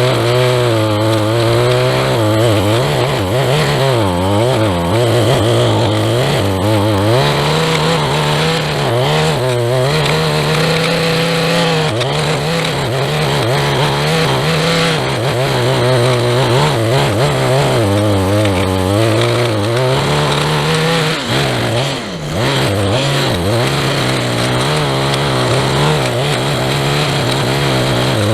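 Small handheld two-stroke engine running at high speed, as on a string trimmer or edger. Its pitch dips several times and picks up again, as when it bogs under cutting load.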